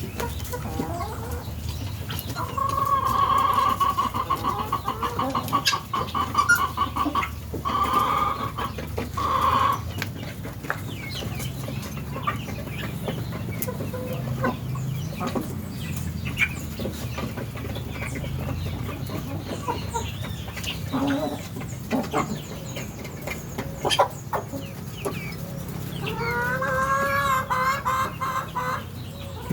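Domestic guinea fowl calling: harsh, rapidly repeated rattling calls in bouts about three seconds in, around eight to ten seconds, and near the end, with shorter calls in between.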